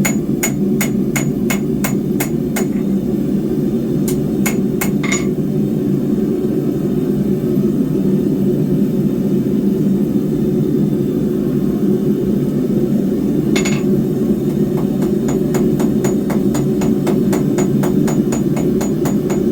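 Hand hammer striking 10 mm square steel bar on an anvil while forging spikes: quick runs of ringing blows, about four a second, over the first few seconds and again over the last few, with a long pause broken by a couple of blows and then a single one. A steady low rushing noise runs underneath.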